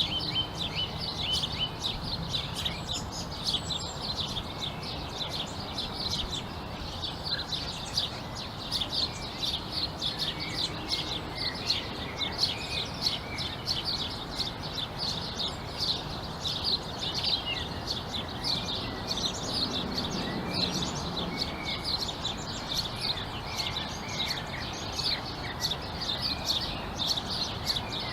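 A chorus of many small birds chirping: a dense, continuous run of short, high chirps from several birds at once, over a faint steady low background rumble.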